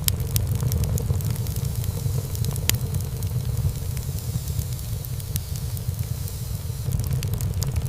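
Wood fire burning in a fireplace: a steady low rumble of flames with frequent irregular crackles and pops of burning wood, a sharper pop about three seconds in.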